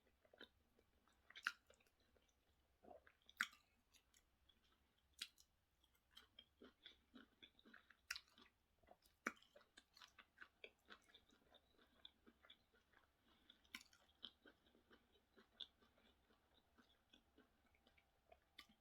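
Faint, close-up chewing of soft food: a person eating plantain with sauce, with irregular small wet mouth clicks and smacks and a few sharper clicks scattered through.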